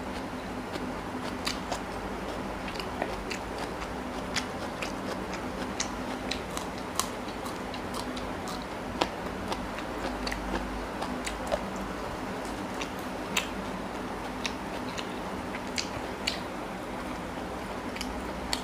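Close-up mouth sounds of a person eating paratha with chicken curry by hand: chewing with irregular wet smacks and clicks, about one or two a second, over a steady low hum.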